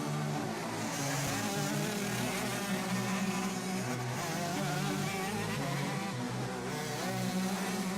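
Several motocross motorcycle engines revving, the pitch rising and falling as the bikes race.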